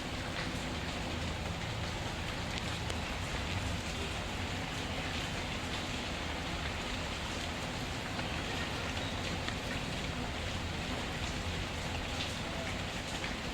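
Steady rain falling, with faint scattered ticks, in a synthetic rain-and-fireplace ambience.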